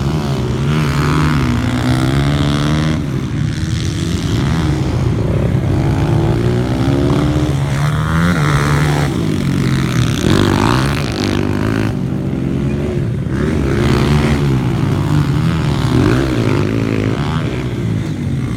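Small pit bike engines running hard, their pitch rising and falling over and over as the throttle opens and closes, with more than one engine heard at once.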